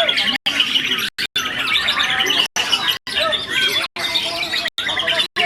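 Several white-rumped shamas (murai batu) singing over one another, a dense mix of high chirps and whistles. The sound cuts out completely for moments, several times.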